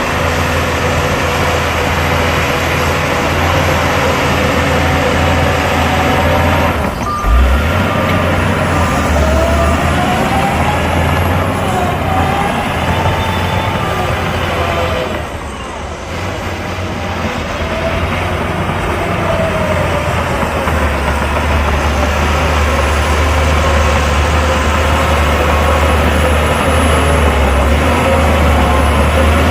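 Heavy diesel earthmoving machinery running under load, its engine pitch rising and falling as it revs. A reversing alarm beeps briefly about seven seconds in and again at the very end.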